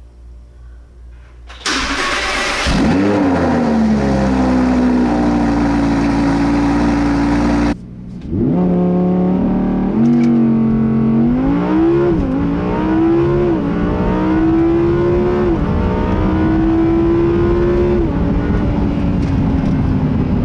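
A high-performance car engine starts with a loud flare that settles into a steady fast idle. About eight seconds in the sound cuts and an engine flares up again, then idles with several light revs that rise and fall back.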